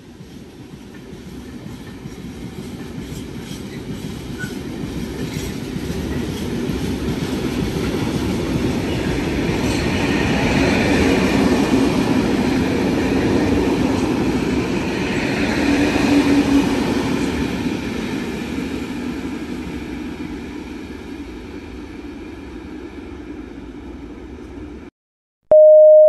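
A train running through the station without stopping: the rumble of its wheels on the rails swells over about ten seconds, peaks, then fades away, with faint clicks of wheels over rail joints as it comes in. Near the end the sound cuts off and a two-note station announcement chime begins.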